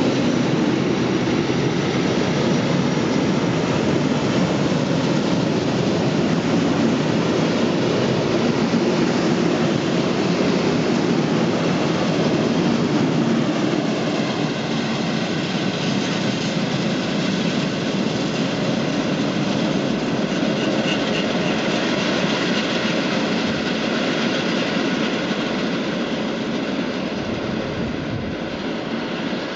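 Long freight train of loaded flat wagons rolling past on the rails: a steady, loud rolling noise of steel wheels on track, with faint high ringing tones joining about halfway through. It eases off near the end as the last wagons pass and the train recedes.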